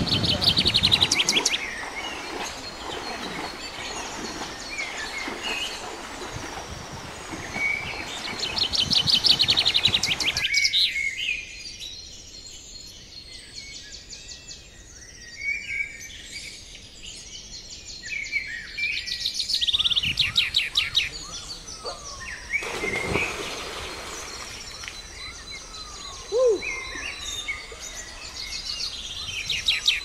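Several songbirds singing and chirping, one repeating a fast trill three times, about ten seconds apart.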